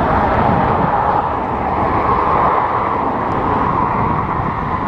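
Steady rumbling roar of an approaching train, swelling a little midway and easing slightly near the end.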